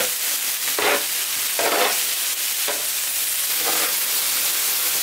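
Steak, prawns, scallops and mushrooms searing on a Severin KG 2397 electric teppanyaki flat grill: a steady, high sizzle, broken by four short scrapes of tongs on the plate about a second apart.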